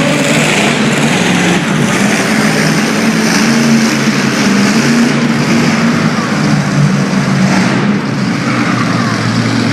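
Monster truck engine running loud and steady, its pitch wavering slightly.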